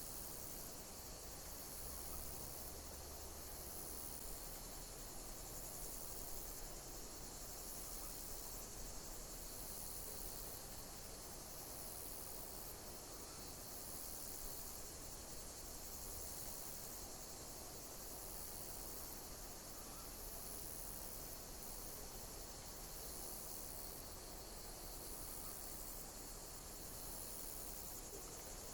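Insects chirping in a steady, high-pitched chorus, with chirps repeating about once a second.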